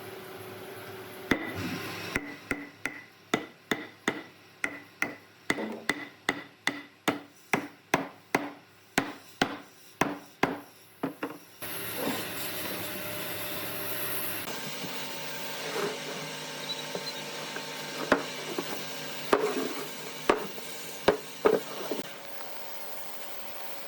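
Hammer striking wood in a steady run of sharp blows, about two or three a second, for roughly ten seconds. Then a steady hiss with a few scattered knocks.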